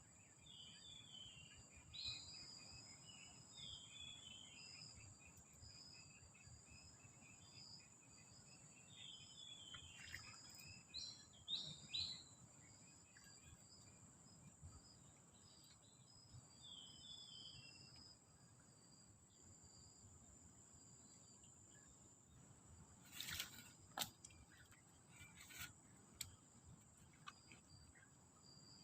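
Faint tropical forest ambience: a steady high insect drone and a pulsing insect chirp, with birds calling in short falling notes through the first half. Near the end come a few sharp clicks or knocks.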